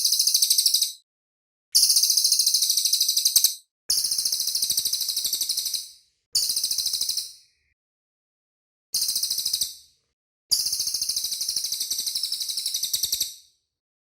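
Cililin bird singing: six high, very rapid, tightly packed trills, each one to three seconds long with short pauses between them. The longest comes near the end.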